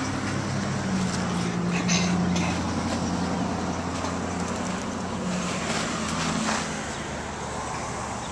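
A motor vehicle engine running steadily at low revs, a low even hum that weakens about seven seconds in.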